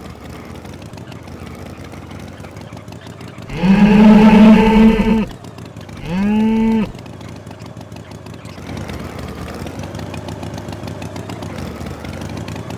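A cow mooing twice: a long moo followed by a shorter one that bends upward at its start, over a steady low hum.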